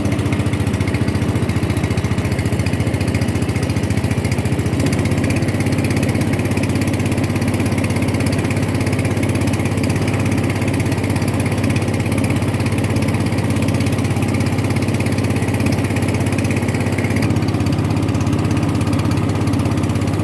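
Motorboat engine running steadily at an even speed, with a slight change in its tone about five seconds in and again near the end.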